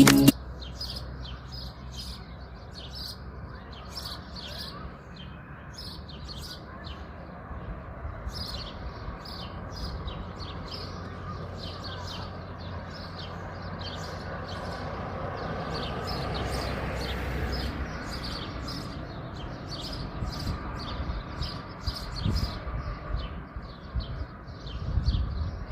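Many small birds chirping and twittering, a constant stream of short high chirps, over a steady low background hum.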